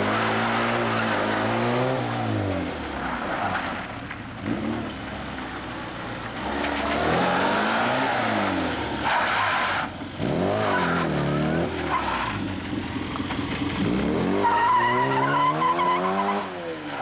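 Classic Mini's A-series four-cylinder engine revving up and falling back again and again as the car is driven hard around a tight cone course. Tyres squeal for a couple of seconds near the end.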